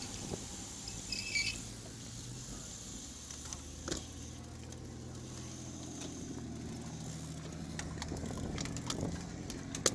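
Riding noise from a road bike in motion: a steady low hum from tyres on the road, with a few sharp clicks.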